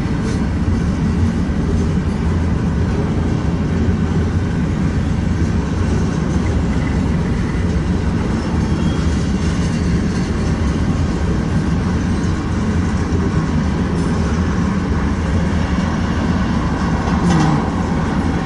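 Freight train rolling past at a grade crossing: a steady rumble of steel wheels on rail as a coil car and tank cars go by, heard from inside a car.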